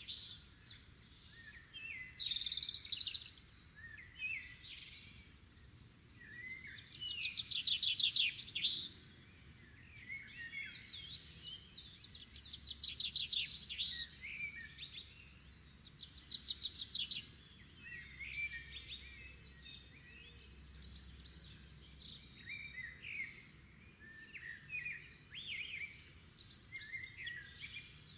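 Songbirds singing in overlapping phrases of fast trills and chirps, the loudest trill around eight seconds in.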